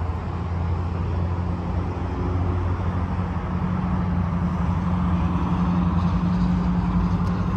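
Harley-Davidson Twin Cam 96 V-twin engine idling steadily, a low hum through Screaming Eagle mufflers.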